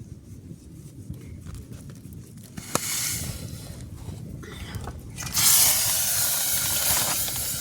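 A click, then a short hiss, and about five seconds in a loud, steady hiss that begins suddenly and slowly fades.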